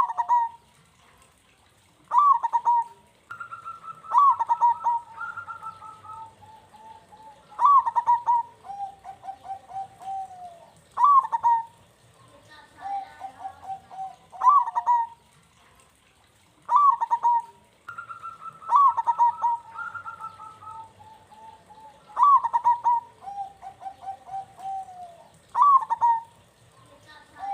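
Zebra dove (perkutut) singing: phrase after phrase of quick, rolling coos, each opening with a loud accented note, a new phrase every two to three seconds.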